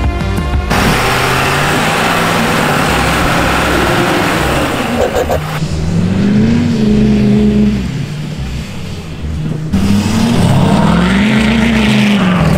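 Pickup truck engine revving hard twice, each rev rising and then falling in pitch, after a noisy stretch of engine and terrain rumble.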